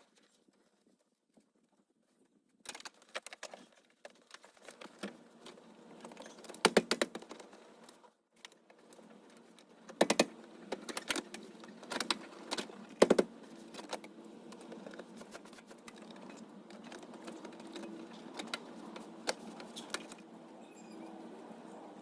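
Irregular light clicks, knocks and rattles, as of small hard objects being handled, starting about three seconds in, with a brief pause just after eight seconds.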